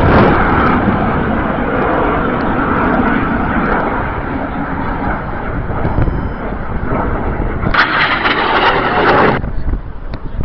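Red Arrows BAE Hawk jets flying past: a loud jet roar that eases off over several seconds. Near the end comes a burst of louder rushing noise lasting about a second and a half, which stops suddenly.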